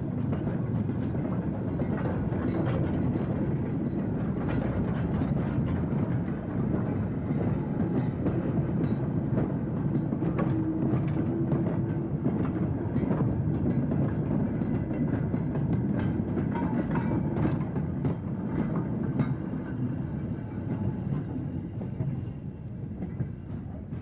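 Steam-hauled mixed goods train of open wagons, brake vans and tank wagons rolling past: a steady rumble of wheels with irregular clattering and clanking over the rail joints, easing a little near the end.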